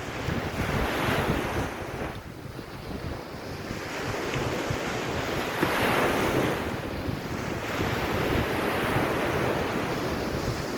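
Waves washing up on a sandy beach, the hiss of surf swelling and falling back a few times, with wind buffeting the microphone.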